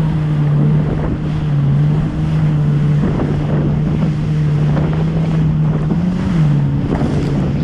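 Jet ski engine running steadily at speed, its pitch shifting slightly a little after six seconds, with the hull slapping through choppy waves and wind buffeting the microphone.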